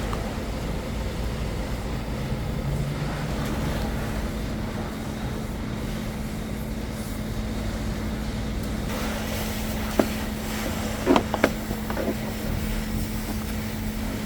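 Car wash machinery running: a steady hum over a noisy hiss, with a few sharp knocks about ten and eleven seconds in.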